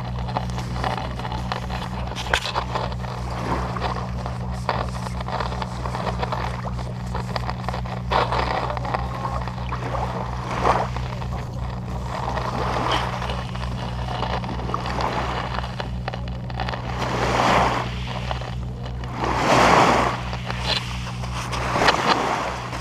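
A boat's engine running steadily, a low hum with an even throb, under the rush of water and wind. There are louder rushes of noise a few seconds before the end.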